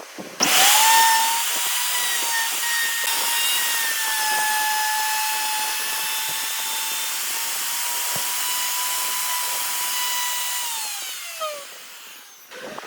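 Electric power tool motor switched on and spinning up quickly, then running steadily with a high whine over a hiss for about ten seconds. Near the end it is switched off and winds down, its pitch falling until it stops.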